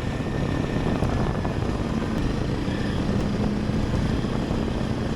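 Honda CRF300L Rally's single-cylinder engine running steadily while riding, under heavy wind noise on the microphone.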